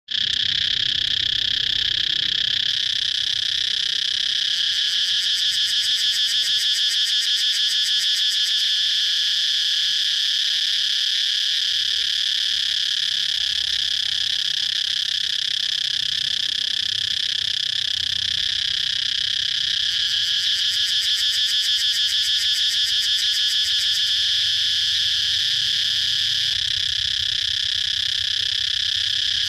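Cicadas buzzing in a loud, continuous, high-pitched drone. A rapid pulsing comes through more strongly in two stretches, a few seconds in and about two-thirds of the way through.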